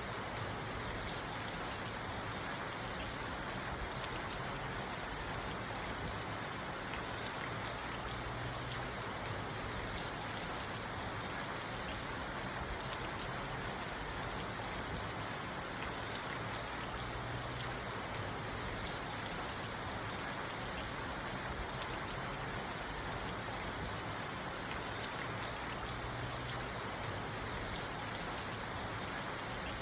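Steady rain drumming on a parked car, heard from inside the car.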